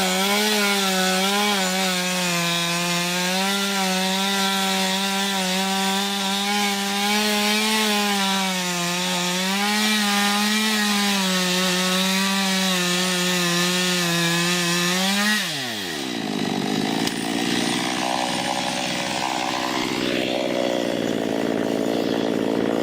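Small chainsaw with a 15-inch bar cutting into an ash trunk at high revs, its pitch wavering under load. About fifteen seconds in the revs fall sharply, and the saw runs slower and rougher until near the end.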